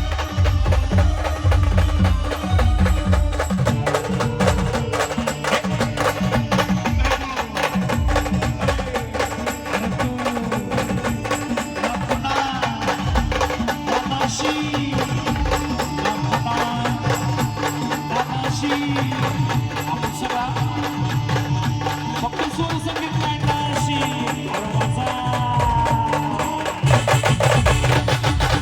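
A band playing a dance song: a fast, steady drum and percussion beat with a heavy bass under a melody line.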